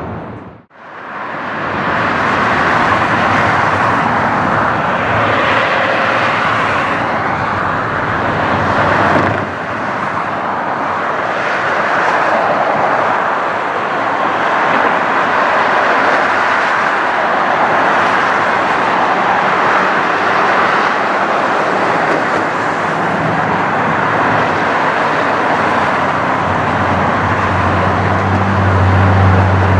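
Jet airliner engines with a steady roar. It drops out sharply for a moment just after the start, and a low hum comes in near the end.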